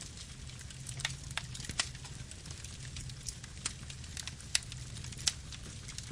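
Campfire burning: a steady low rumble of flames with irregular crackles and a few sharper pops of burning wood.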